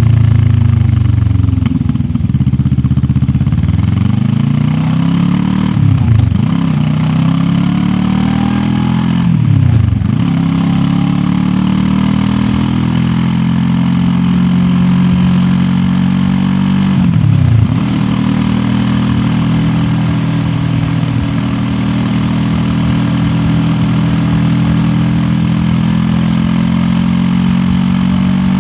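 QJ Motor SRT 700X parallel-twin engine pulling the bike along under way. The engine note climbs and then drops sharply three times as the rider shifts gears, and it holds a steady pitch through the second half while cruising.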